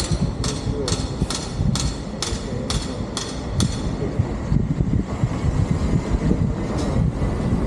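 A vehicle's low, steady rumble with sharp, regular ticks about twice a second that stop about three and a half seconds in.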